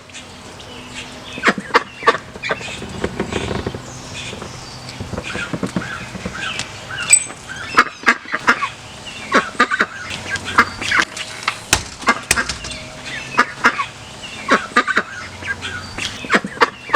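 Ducklings peeping over and over, mixed with calls from adult ducks. Sharp clicks and taps are scattered throughout.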